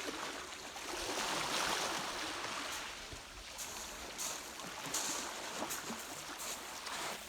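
Sea water washing and splashing: a wave swells about a second in, followed by a series of short, hissing splashes.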